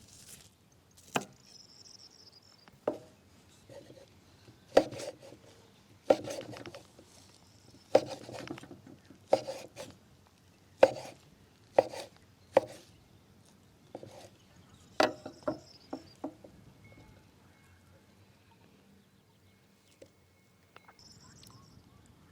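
Knife chopping on a wooden cutting board: about fifteen sharp, irregular strokes that stop about two-thirds of the way through.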